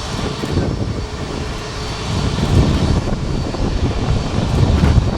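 Boeing 737 MAX's CFM LEAP-1B jet engines running at high power as the airliner takes off, a deep rumble that grows louder about two seconds in.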